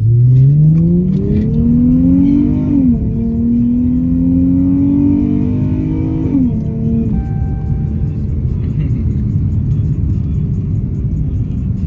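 Single-turbo Dodge Charger SRT V8 accelerating hard: the engine note climbs, drops sharply at an upshift nearly three seconds in, climbs again and drops at a second upshift about six and a half seconds in, then settles into a steadier pull.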